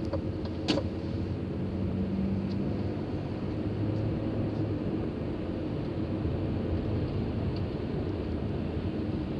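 Steady road noise inside a moving car: a low engine hum under an even rush of tyre and wind noise, with one short click less than a second in.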